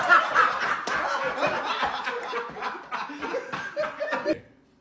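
People laughing hard, the laughter gradually dying down and stopping just before the end.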